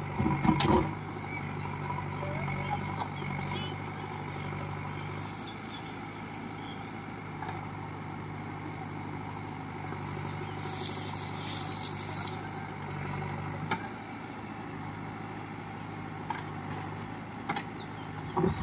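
JCB backhoe loader's diesel engine running steadily. There is a loud knock about half a second in and a brief hiss near the middle.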